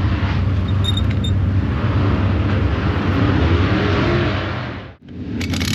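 Race car engines running steadily, loud and continuous. The sound drops out suddenly about five seconds in and picks up again.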